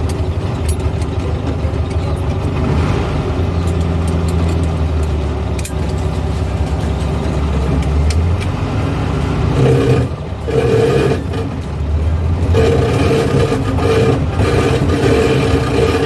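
A 1970s Volkswagen's air-cooled flat-four engine running while the car is driven, heard from inside. The sound dips briefly about ten seconds in, and the engine note changes after it.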